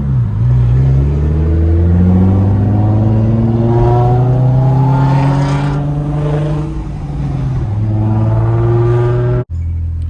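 Car engine accelerating hard, its pitch climbing for about five seconds, easing off, then climbing again before cutting off abruptly near the end.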